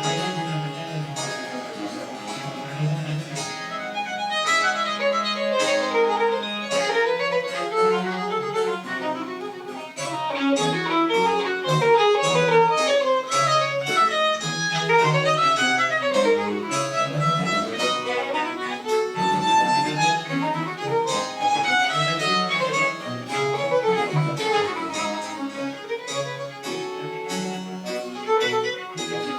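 French Baroque chamber music played live: a violin in fast running passages over a steadily moving bass line.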